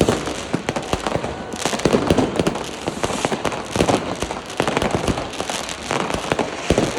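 Fireworks going off, a dense run of bangs and crackles with no break between them.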